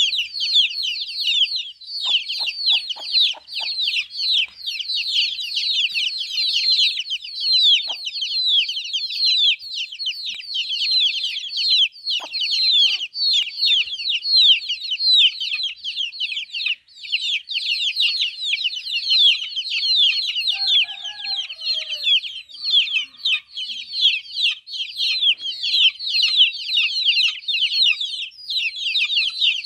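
A brood of young chicks peeping nonstop: many overlapping, high, short falling peeps from several birds at once.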